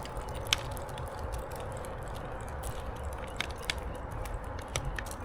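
Footsteps crunching along a dirt trail, with scattered sharp clicks, one louder about half a second in, over a steady low rumble.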